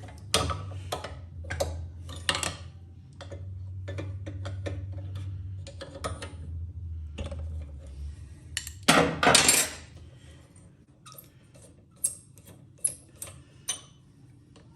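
Metal hand tools clinking and tapping against an air compressor's cylinder head and its bolts as they are worked loose, many short sharp clicks. A low hum runs under the first eight seconds, and a louder burst of noise comes about nine seconds in.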